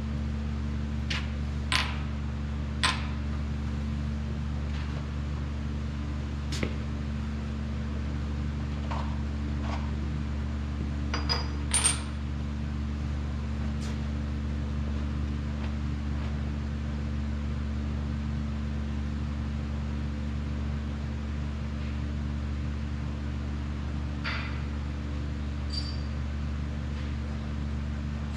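Steady low machine hum in a workshop, with a few sharp, light metal clinks of metal parts being handled, the loudest about twelve seconds in.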